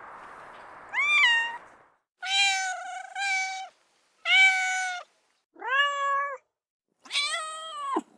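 Domestic cats meowing: six separate meows, each under a second long, at differing pitches. Two of them come close together, about two seconds in.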